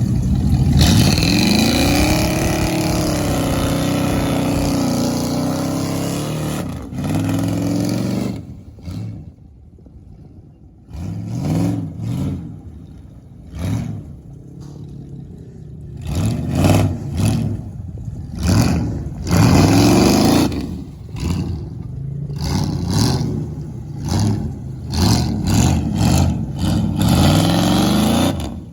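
Pickup truck engine revved hard over and over, the pitch climbing and dropping with each rev. A long rev climbs and holds early on; after a quieter spell come many short, quick revs.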